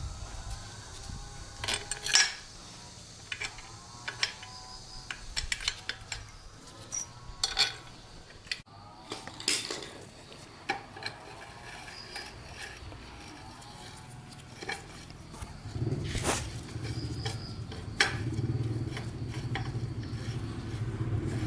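Metal parts and hand tools clinking and knocking together, with scattered sharp clicks. About three quarters of the way in, a low steady hum starts and keeps going under the clinks.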